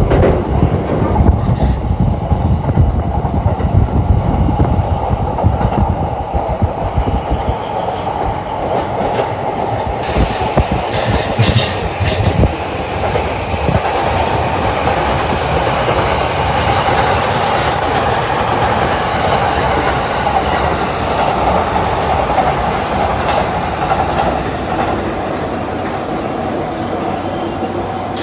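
Doctor Yellow Shinkansen track-inspection train running, its wheels clattering rhythmically in the first half. The sound then settles into a steadier running noise that slowly fades away.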